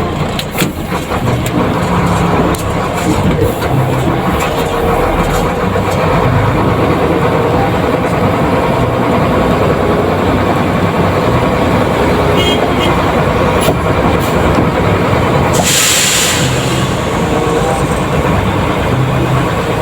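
Cargo truck running on the road, with steady engine and road noise and small rattles, and a brief hiss about 16 seconds in.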